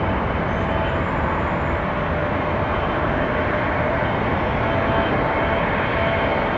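Jet engines of an Airbus A300-600F freighter after landing, a steady rushing noise with faint whining tones on top.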